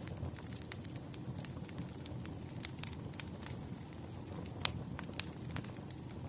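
Wood fire crackling: irregular sharp pops and snaps over a low steady rumble, with one louder pop a little past the middle.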